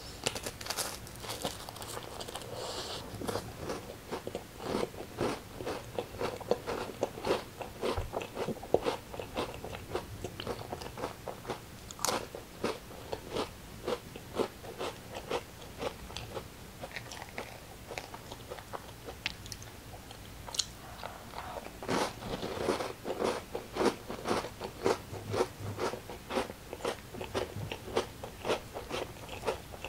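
A person biting and chewing crunchy food close to the microphone: runs of crisp, rapid crunches with short pauses between them.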